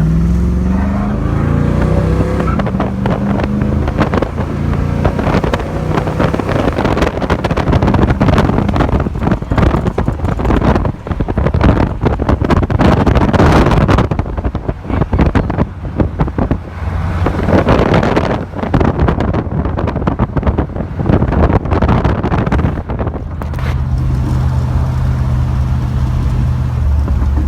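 Car engine accelerating, its pitch rising at the start, then heavy wind and road noise that swells and dips, settling to a steady engine tone near the end.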